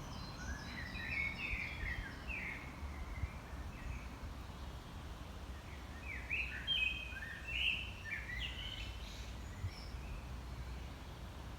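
A songbird singing two phrases of quick notes that step down in pitch, one at the start and one about halfway through, over a steady low rumble.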